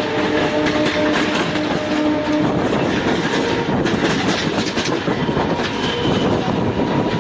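Moving passenger train heard from an open coach door: wheels clattering over the rails with wind rushing past. A steady tone sounds over it and stops about two and a half seconds in.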